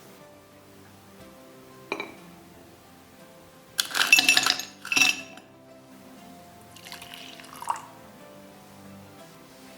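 Ice cubes dropped into a drinking glass, clinking in two quick bursts, then a softer clatter a few seconds later, over soft background music.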